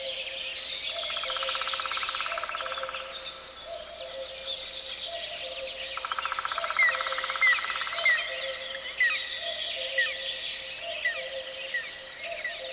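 Dense chorus of songbirds: many overlapping chirps and short whistled notes, with a rapid trill twice and a low two-note call repeating steadily underneath.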